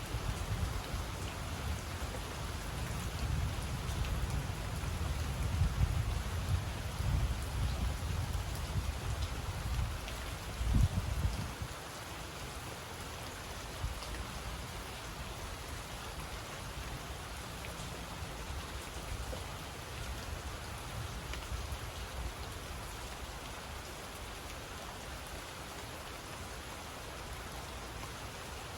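Steady rain falling on a mango tree, with scattered drops ticking. A low rumble runs under it for roughly the first half and stops about twelve seconds in.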